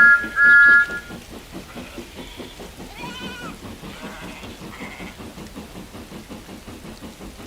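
Two loud toots of a steam engine's whistle, the second a little longer, over rain and a fast regular beat. A short wavering high call follows about three seconds in.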